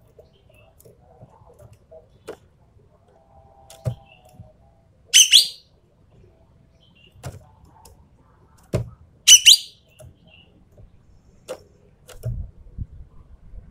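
Ekek keling calling twice, two short, harsh, high calls about four seconds apart, with scattered clicks and knocks between them.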